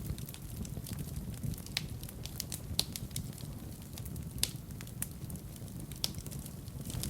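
Wood fire burning in a fireplace: a steady low rumble of flame with frequent irregular crackles and a few sharper pops.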